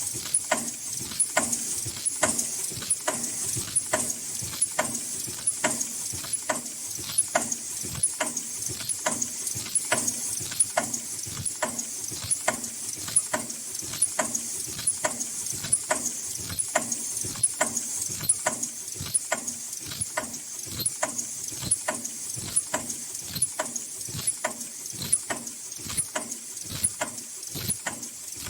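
High-speed N95/FFP mask production machine running at a steady rate: a regular mechanical clacking about twice a second over a continuous high hiss.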